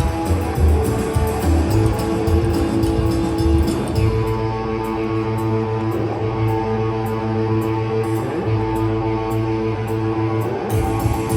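A live rock and roll band plays an instrumental passage, electric guitar over bass and drums. About four seconds in the drums drop back to light ticks while the guitar holds long notes. The full band comes back in near the end.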